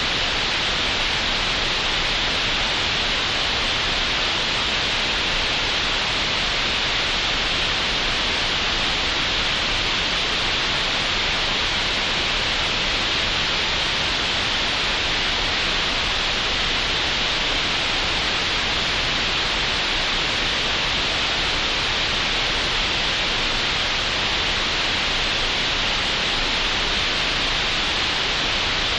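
Green noise generated in Audacity: a steady, unchanging hiss with no rhythm or tones, brightest in the upper middle range.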